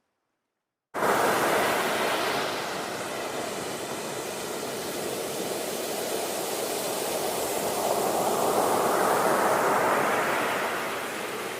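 Ocean surf: a steady wash of breaking waves that cuts in suddenly about a second in, eases, then swells again before subsiding near the end.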